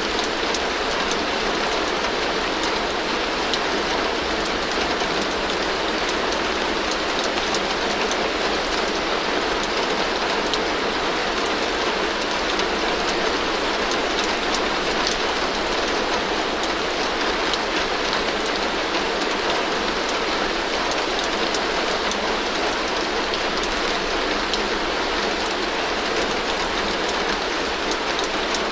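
Heavy rain falling steadily on a tin roof: a dense, even hiss of rain on metal, flecked with the ticks of single drops.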